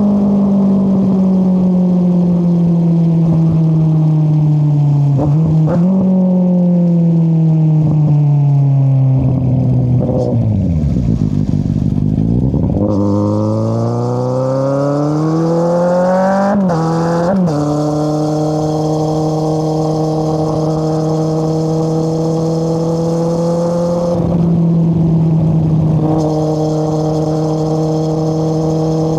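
2013 Kawasaki Z800 inline-four running through an Akrapovic exhaust with the dB killer removed. The revs fall off as the bike slows, down to a low rumble about halfway, then climb under acceleration. Two quick upshifts follow, and it settles into a steady cruise.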